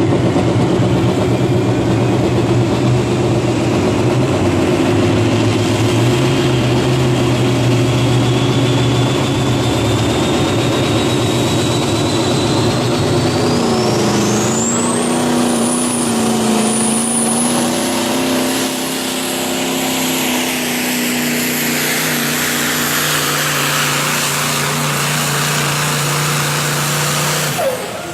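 Modified semi truck's diesel engine running hard under load while pulling the weight sled, with a turbocharger whistle that rises slowly in pitch and then climbs sharply about halfway through. The engine note dips briefly at that point and then holds. The sound cuts off abruptly near the end.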